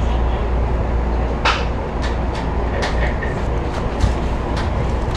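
Steady low hum inside a halted electric commuter train car, with several sharp clicks scattered through, the strongest about a second and a half in.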